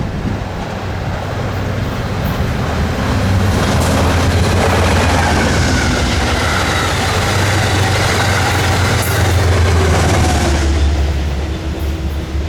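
Passenger train passing close by: a loud, steady rumble of wheels on rail that builds over the first few seconds, holds, then eases slightly near the end.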